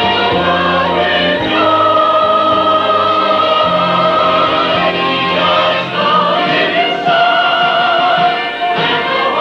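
Church chancel choir singing, holding long sustained notes and moving slowly from chord to chord.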